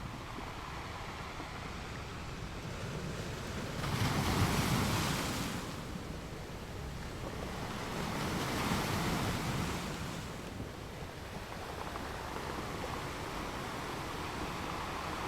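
Ocean waves breaking and washing on a beach, in two surges: the louder about four seconds in, a second from about eight to ten seconds in.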